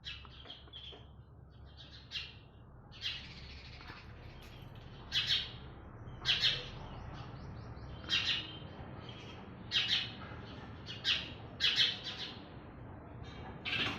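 Small birds chirping in short, separate calls, about nine over the span, each coming a second or two after the last.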